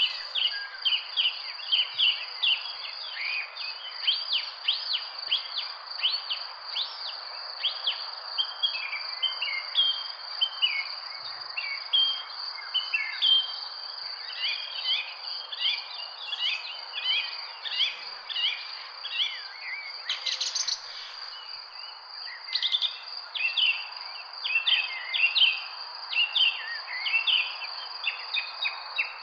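Many birds chirping and calling in quick, short notes over a steady, high-pitched insect drone.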